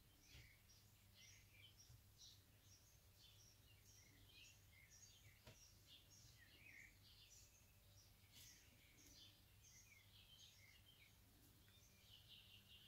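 Near silence: faint room tone with a low steady hum and scattered faint high chirps of small birds.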